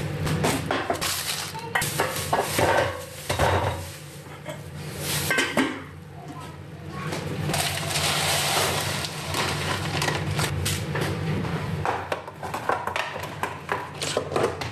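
Kitchen items being handled: a series of clicks and knocks, with a stretch of hiss-like rustling about eight seconds in.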